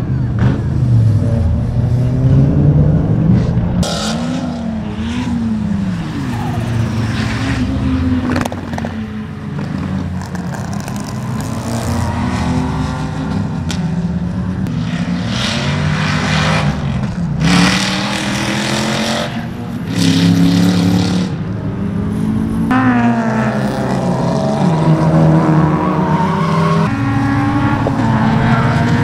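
Several cars' engines revving hard on a race circuit as they pass in turn, with the engine notes climbing and dropping again and again through gear changes and lifts off the throttle.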